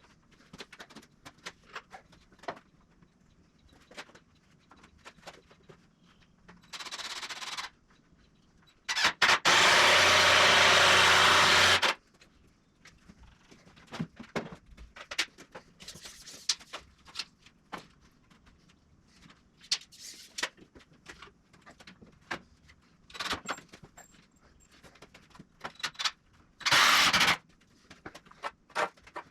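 Power tool running in bursts, most likely on the 2x4 lumber of the build: a short burst, then a loud steady run of about three seconds, then another short burst near the end. Knocks and clicks of wood being handled and set down come in between.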